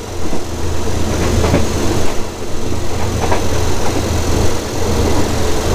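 Steady low rumble and rattle of a diesel-hauled passenger train, heard from inside the carriage.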